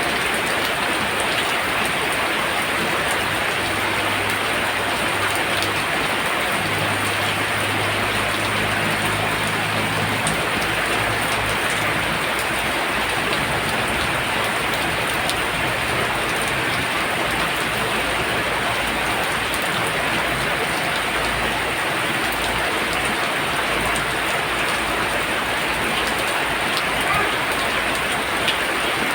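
Heavy rain pouring down steadily, a dense even hiss of drops striking surfaces.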